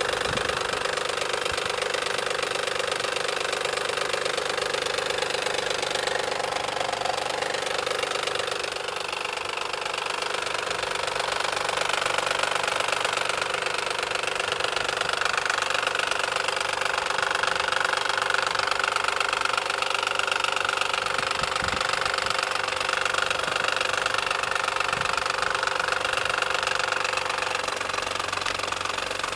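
Ford Probe GT engine running steadily, heard in the engine bay, with a harsh noise whose source is not yet found.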